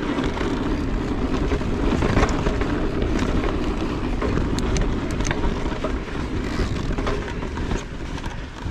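Mountain e-bike riding along a dirt trail: a steady rumble of tyres and wind, with scattered small knocks and rattles from the bike over rough ground.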